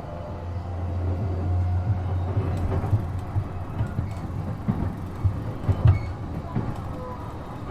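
JR East E233-7000 series electric train running between stations, heard on board: a steady low rumble that grows louder about a second in, with irregular sharp knocks of the wheels over rail joints.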